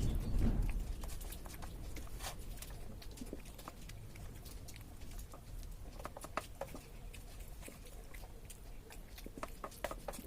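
Eating sounds: scattered small clicks and smacks of someone eating rice and curry, with a louder low rumble in the first second.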